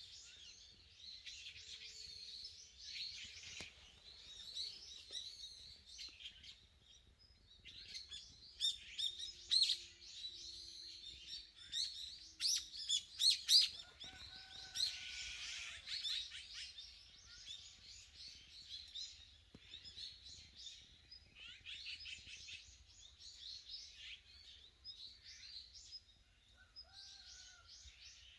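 Several small songbirds chirping and twittering in a morning chorus, overlapping calls throughout, with a run of loud, rapid chirps around the middle.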